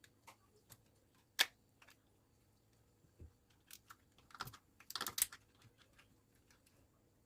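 Scattered light clicks and taps at an uneven pace, with one sharper click about a second and a half in and a quick cluster of clicks about five seconds in.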